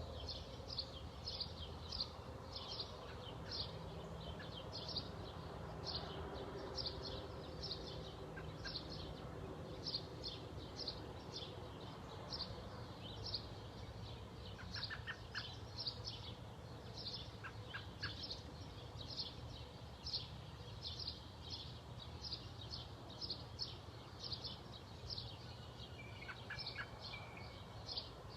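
A small bird chirping over and over, about two short high chirps a second, with a few other bird calls now and then and a steady low rumble underneath.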